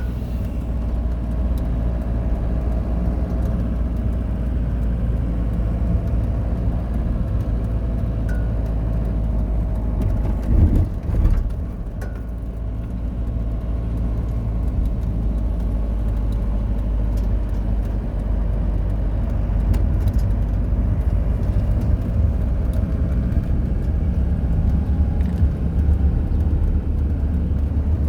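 Steady low rumble of a running vehicle, with a brief louder knock about ten to eleven seconds in.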